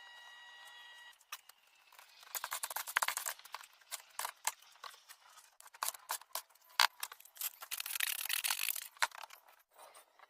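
Cement being worked with a trowel against brick: irregular scraping and sharp clicking taps that start about a second in and carry on, with a thicker scraping stretch near the end.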